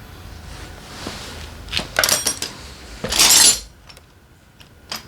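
Small metal engine parts clinking together while being handled, with a few sharp clinks about two seconds in and a louder, half-second metallic rattle a second later.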